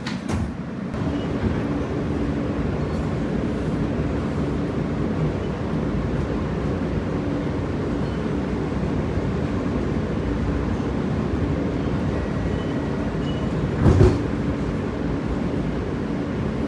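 New York City subway train running between stations, heard from inside the car: a continuous rumble of wheels on rail with a faint steady hum. There is a brief knock at the very start and a loud thump about fourteen seconds in.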